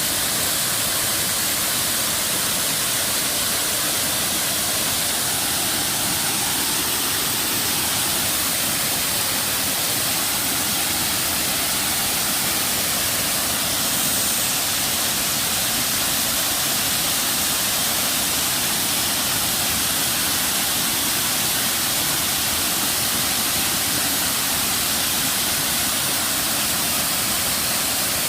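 Wonhyo Falls waterfall pouring steadily: a constant, even rush of falling water with no break or change.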